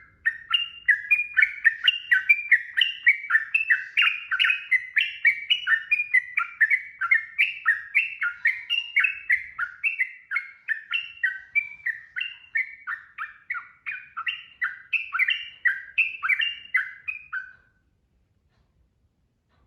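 Yellow-vented bulbul singing a long, rapid, unbroken run of short bubbly notes, about four a second; the song stops abruptly near the end.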